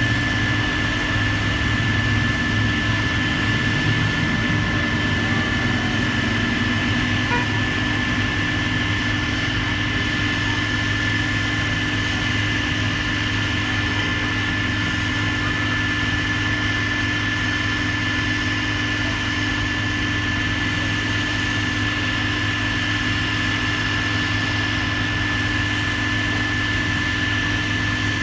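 Heavy demolition machinery's diesel engine running steadily, with a constant high whine over the low engine note.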